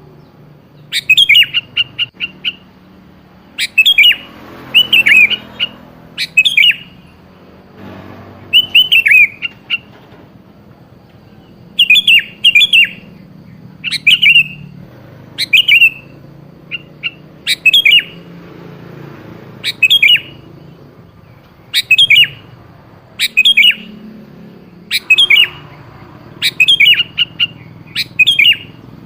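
Sooty-headed bulbul calling: short, loud phrases of quick falling notes, repeated about every one to two seconds.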